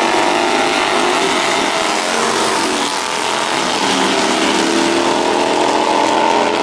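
Motorcycle engine running while being ridden; its pitch drops over the first couple of seconds, then climbs again as it speeds up.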